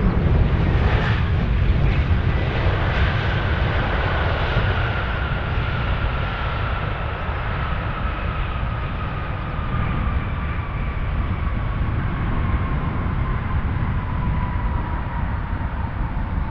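Jet airliner engines during a landing: a steady low rumble with a high whine that slowly falls in pitch.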